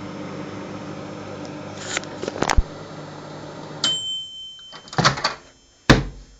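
Microwave oven running with a steady hum, a few clicks about two seconds in; about four seconds in it stops and beeps once for about a second, followed by clunks of the door being opened and handled.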